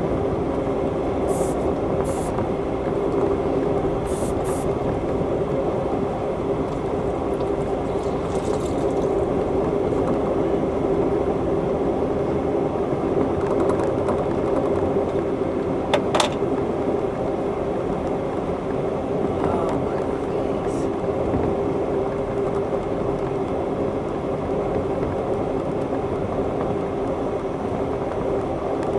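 Interior ride noise of an Amtrak Superliner passenger car under way: a steady rumble with a constant hum from the running gear and track, a few light ticks in the first few seconds and one sharp click about sixteen seconds in.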